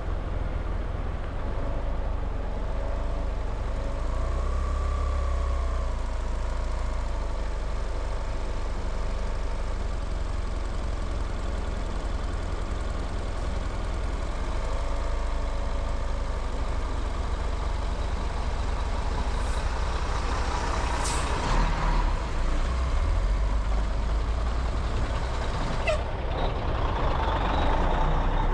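Moving vehicle with a steady low road rumble. A louder hissing swell comes about two-thirds of the way in, and another near the end.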